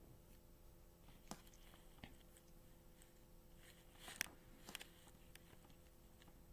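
Near silence in a small room, broken by a few faint clicks, the loudest about four seconds in.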